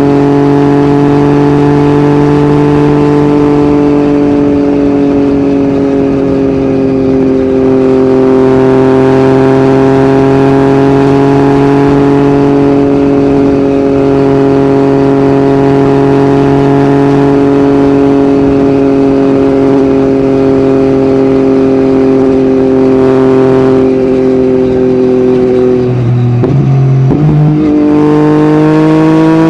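Yamaha MT-09's three-cylinder engine through an Akrapovic exhaust, holding steady revs at a cruise. About 26 seconds in the note breaks and jumps through a couple of quick gear changes, then the revs climb again near the end.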